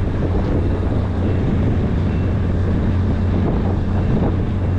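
Boat engine running steadily with a low, even hum, with wind buffeting the microphone.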